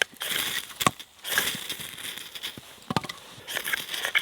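Ferrocerium rod being struck with a scraper several times to light tinder, each stroke a short rasping hiss, with a few sharp clicks between strokes.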